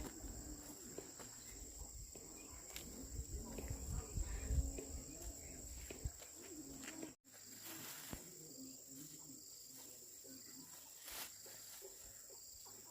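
Insects trilling steadily on one high note, with low rumbling and faint movement noise in the first half. The sound drops out for an instant about seven seconds in, then the trill carries on over a quieter background.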